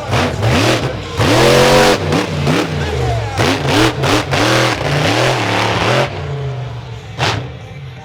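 Monster truck engine revved hard again and again, its pitch swinging up and down with each throttle stab, easing off for a moment around a second in and quieter near the end.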